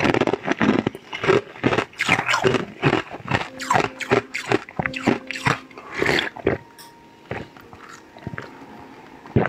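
Close-miked biting and chewing of a green, cucumber-shaped food: dense, wet, crunchy mouth sounds for about six and a half seconds, then slower and quieter chewing.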